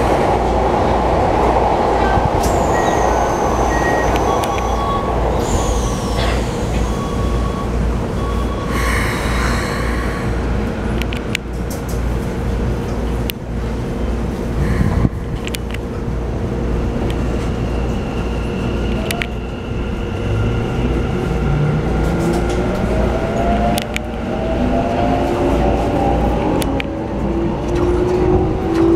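Keikyu New 1000 series train car heard from inside. Short chime tones sound while it stands at the platform, and the door shuts with a knock about 15 s in. From about 20 s the Mitsubishi IGBT-VVVF inverter sets up a whine of several tones rising steadily in pitch as the train pulls away and accelerates, a sound much like a JR E233 series.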